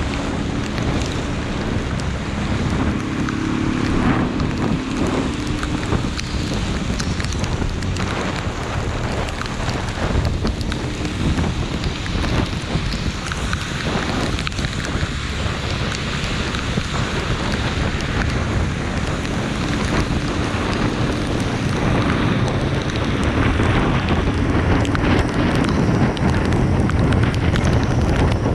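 Steady heavy rain, with wind noise on the microphone. A low hum comes and goes under it.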